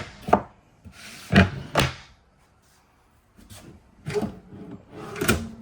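Kitchen storage drawers being pulled open and pushed shut: sharp wooden knocks, two loud ones in the first two seconds, then softer sliding and knocking near the end.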